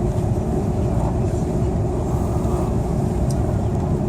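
Steady cabin noise inside an Airbus A330-300 airliner on approach to land: a continuous low drone of engines and rushing air, with a faint steady hum running through it.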